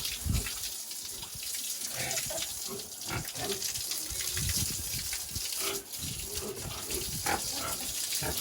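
Several pigs grunting and oinking in short, irregular calls, over a steady hiss.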